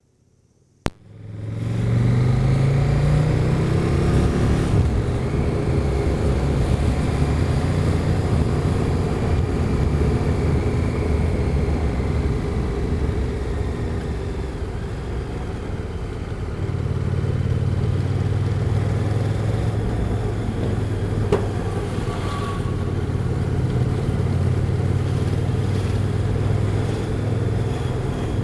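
Motorcycle engine starting about a second in, rising in pitch as the bike accelerates over the first few seconds, then running steadily at speed with a slight dip and recovery partway through; a single sharp click near the end.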